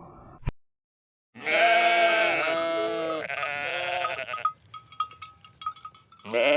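Farm animal bleating: a long wavering bleat in three parts starts about a second and a half in, and a second bleat begins near the end. Faint clicks and ticks sit between the two.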